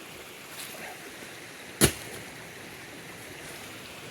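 Steady rush of a running creek, with one sharp knock a little under two seconds in as something strikes the creek ice.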